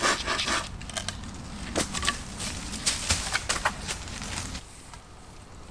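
Irregular rustling, scraping and snapping of wood and branches being worked by hand, quieter after about four and a half seconds.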